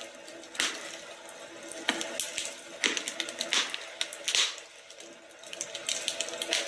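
Wood fire in a fireplace crackling, with irregular sharp pops and short hisses about every second over a faint steady hum.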